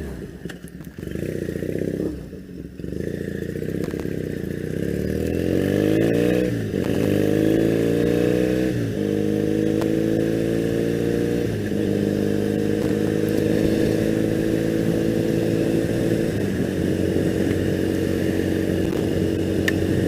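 2001 Triumph Bonneville's air-cooled parallel-twin engine pulling away and climbing in pitch, dropping at each of three upshifts, then running at a steady cruise for the second half.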